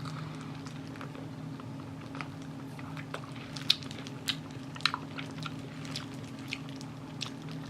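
Close-mic chewing and biting of sauced Korean fried chicken (a neck piece): scattered sharp crunchy clicks and wet mouth sounds over a steady low hum.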